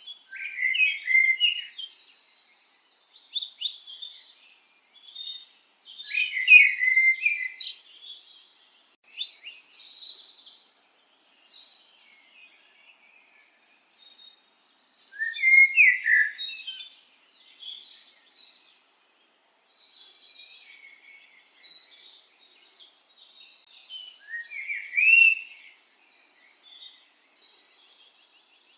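Songbird song: phrases of quick chirps, trills and rising notes, each a second or two long, with gaps of a few seconds between them.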